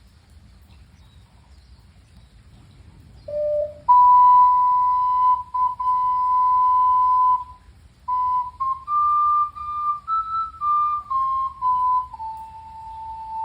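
Ocarina playing a slow melody in pure, flute-like single notes: a short low note about three seconds in, then long held notes that step up and back down. A steady low background of rain sounds runs underneath.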